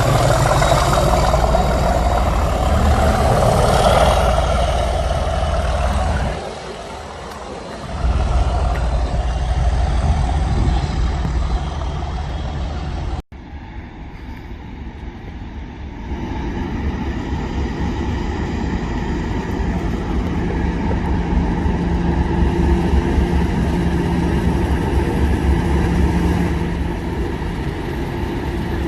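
Class 37 diesel locomotive's English Electric V12 engine running, a loud, steady, deep mechanical sound. It drops briefly about six seconds in. It cuts out for an instant about thirteen seconds in, then runs on quieter and steadier, with a held hum later on.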